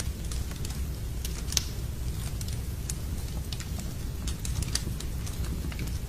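Log fire in a fireplace crackling, with irregular sharp snaps and pops, over a steady low rumble and a light hiss of rain.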